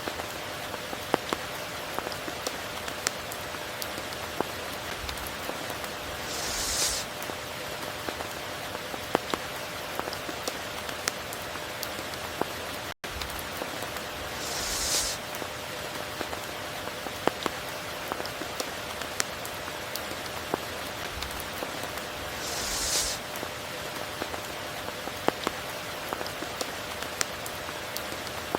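Steady rain with many sharp single drops striking close by. A brief hissing swell comes about every eight seconds, and the sound cuts out for an instant about halfway through.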